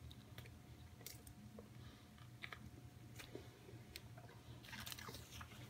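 Faint chewing of a mouthful of hamburger, with a few soft clicks, over a low steady room hum.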